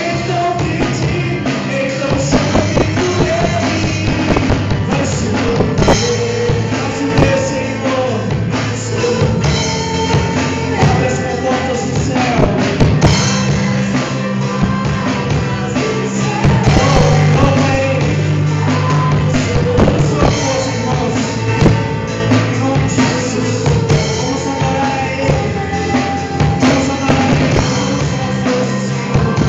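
Live band music with a drum kit, held bass and keyboard notes and singing, steady and loud throughout, in the style of Pentecostal revival worship music.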